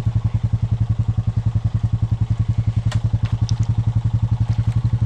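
Honda Rancher ATV's single-cylinder four-stroke engine idling with a steady, even, rapid beat, with a couple of faint clicks about three seconds in.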